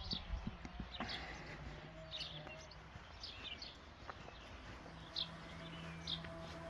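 Faint, scattered bird chirps over a low steady hum.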